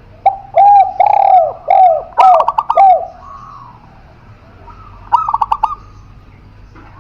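Doves cooing: a spotted dove (tekukur) gives a loud series of about six low, arched coos over the first three seconds, and a zebra dove (perkutut) answers with short runs of quick, higher notes, once overlapping the coos and again about five seconds in.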